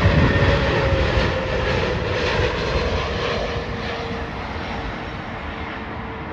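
Jet airliner passing over on its landing approach: engine noise loudest at the start and fading away, with a whine that slowly drops in pitch.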